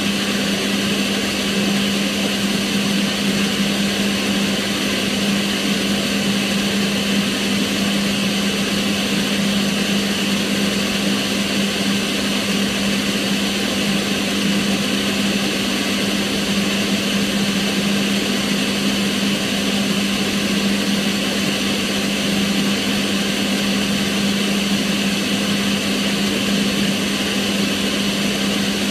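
Kitchen range hood's extractor fan running at a steady speed, giving an even rushing hiss over a low, constant hum.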